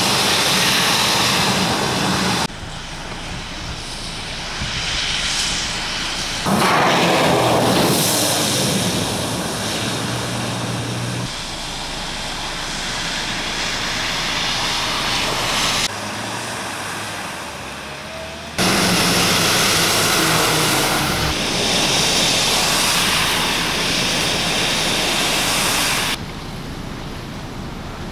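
Traffic noise on flooded streets in heavy rain: a steady rushing noise of vehicles and wet tyres. It jumps in level at several abrupt cuts between shots.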